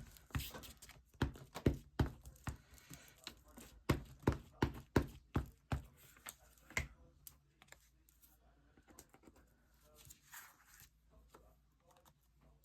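Small taps and knocks of craft supplies and tools being picked up and set down on a desk. They come thick and fast for about the first six seconds, then thin out to a few faint ones.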